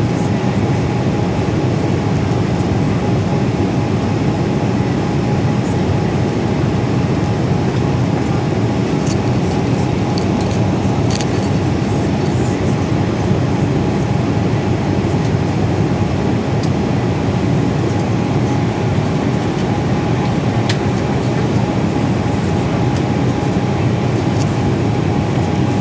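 Airbus A320 passenger-cabin noise in flight: a steady low drone of engines and rushing air, with a faint steady tone above it.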